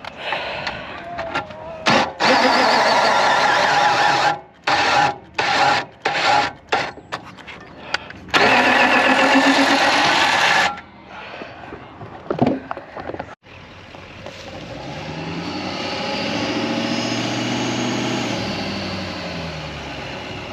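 Four-wheel-drive truck's engine revving in several loud bursts while it rocks back and forth to free the caravan hitch in the mud, then a slower rev that rises and falls near the end.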